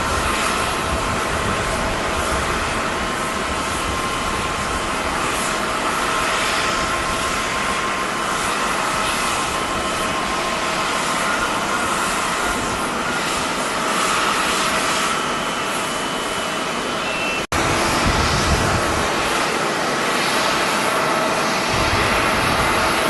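Jet airliner engines running with a steady whine over a broad rush, with strong gusty wind buffeting the microphone. The sound cuts out for an instant about 17 seconds in, then carries on.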